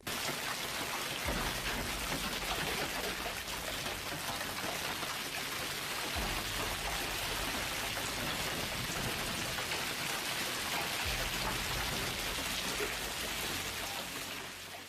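Heavy storm rain falling steadily, a dense even hiss of drops.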